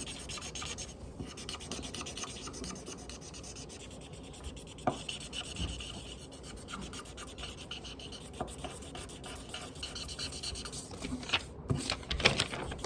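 Pink colouring scribbled back and forth on paper: a rapid run of rubbing strokes while a large area is filled in, slow going. There are a couple of light knocks, one about five seconds in and more near the end.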